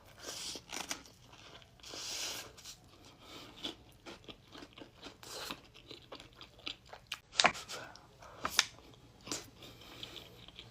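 A person chewing and biting food close to the microphone: irregular wet mouth smacks and clicks, the two sharpest about seven and a half and eight and a half seconds in. This is mukbang eating of chili cheese dogs and chili cheese fries.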